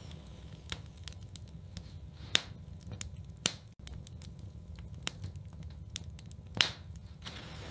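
Wood fire crackling in a fireplace: irregular sharp pops and snaps, with two louder pops about two and a half and six and a half seconds in, over a low steady rumble.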